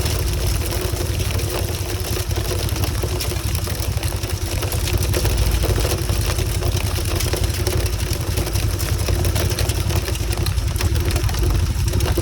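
Motorcycle engine running steadily, under a strong low rumble and an even hiss that sound like wind on the microphone.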